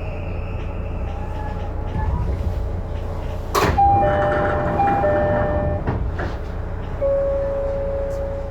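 Odakyu 5000 series train at a station stop, with a low rumble in the car. About three and a half seconds in a sharp, loud noise as the doors work, then a repeating two-tone door chime, and near the end a steady single tone.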